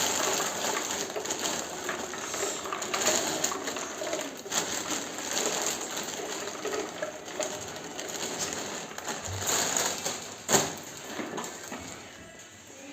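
Handling noise as snack packets and a plastic storage container are moved and packed: steady rustling with scattered clicks, and one sharper knock about ten and a half seconds in.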